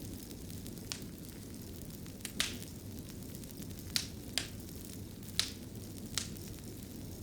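Fireplace fire crackling: a steady low rumble with sharp pops about every second, seven in all.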